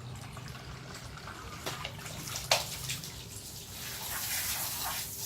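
Water running and splashing, the hiss growing louder in the second half, with one sharp click about halfway through.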